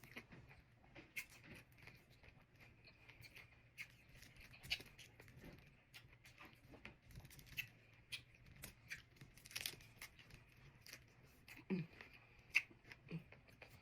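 Faint eating sounds from tacos being chewed, with scattered short crunches and smacks.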